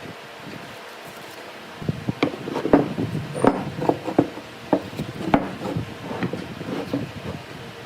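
Irregular wooden knocks and taps from hand work on wood, starting about two seconds in.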